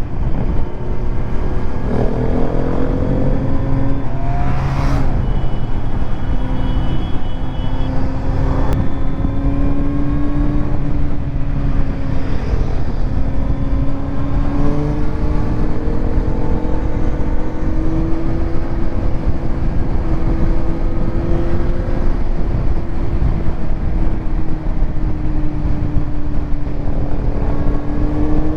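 Kawasaki Z900's inline-four with a titanium Arrow exhaust running under way. The engine note climbs and drops with a few gear changes in the first several seconds, then holds at a steady cruise with revs creeping slowly up, over a constant rushing noise. There is one brief sharp sound about five seconds in.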